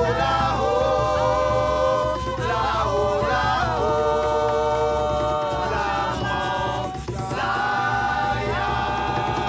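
A group of voices singing a traditional Maroon revival song together in harmony, holding long notes and sliding between them, with a brief break about seven seconds in.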